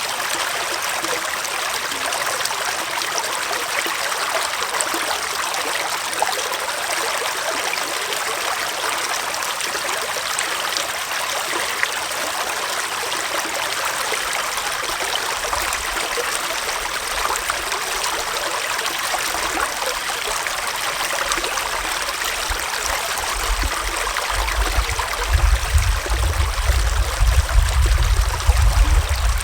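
Small forest stream running steadily, a continuous trickling and gurgling flow. A low rumble comes in about halfway through and grows louder near the end.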